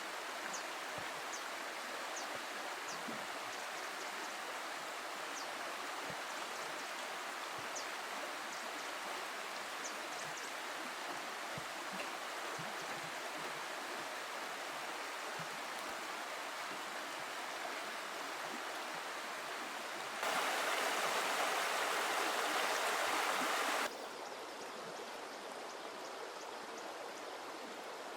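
Steady rush of flowing water, like a stream. About twenty seconds in it jumps abruptly louder for three or four seconds, then drops back just as suddenly to a slightly quieter rush.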